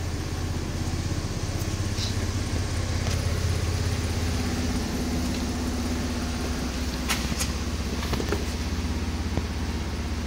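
2010 Chevy Impala LT's 3.5-litre V6 idling steadily, just under 1,000 rpm: a low, even hum.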